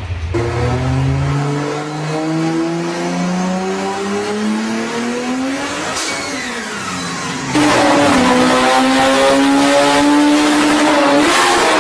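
Car engine accelerating hard, its pitch climbing for about six seconds, then dropping suddenly; it runs louder from a little past halfway, with the pitch falling near the end.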